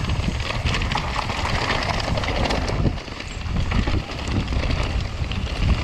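Mountain bike descending fast over rough ground: tyres rolling over rocks and loose dirt with a dense run of clicks and knocks as the bike rattles. Wind is buffeting the microphone, adding a low rumble.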